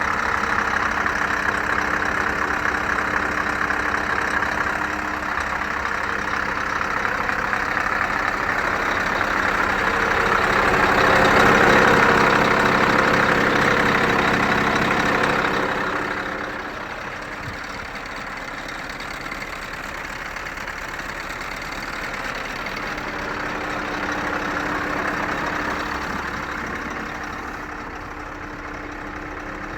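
Scania R560 tractor unit's 16-litre V8 diesel idling steadily. It grows louder for a few seconds around the middle, then settles at a lower level for the rest.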